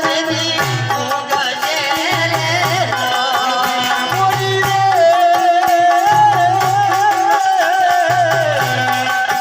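Amplified ramamandal folk music: a wavering melody, sung or played, over a repeating low drum beat.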